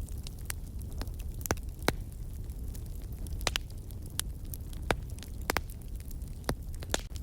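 Wood fire crackling, with irregular sharp pops over a steady low rumble; a handful of louder pops stand out, about two a second at the busiest.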